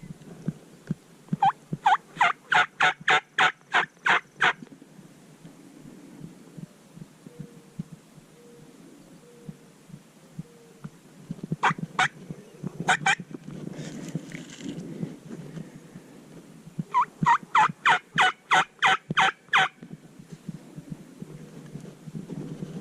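Hen turkey yelps from a hunter's turkey call, in three runs: about ten evenly spaced loud yelps, then a few more, then another run of about ten near the end.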